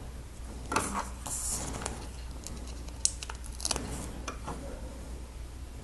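A few sharp small plastic clicks and a short crinkly rustle as Lego pieces and a sticker sheet are handled, over a steady low hum.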